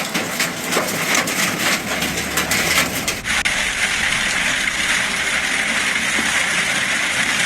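Hail and heavy rain pelting a vehicle: a dense clatter of many hailstone impacts. About three seconds in it changes abruptly to a steadier, denser rush of rain and hail.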